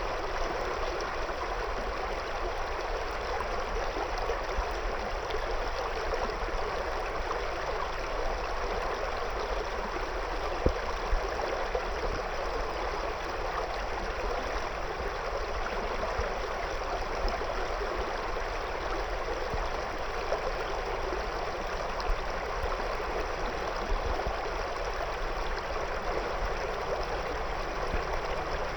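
River water flowing steadily over and around stones, an even rushing babble with occasional brief splashes.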